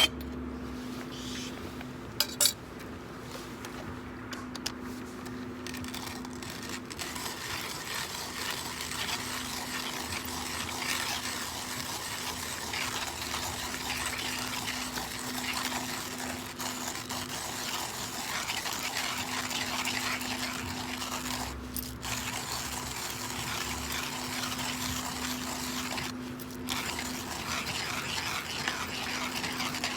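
Cooking over a small wood fire: a pot and utensils clink a couple of times about two seconds in, then a steady fine crackling, bubbling hiss builds and carries on.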